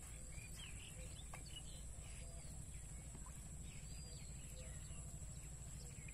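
Birds chirping, with many short quick notes scattered throughout, over a steady high-pitched whine and a low rumble.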